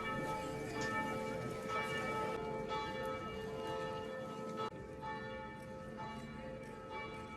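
Church bells ringing, with repeated strokes about once a second whose tones hang on and overlap.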